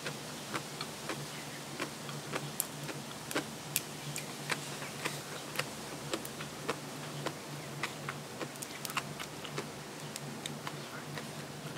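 Close-miked chewing: irregular sharp crunches and mouth clicks, two or three a second, over a steady low hum.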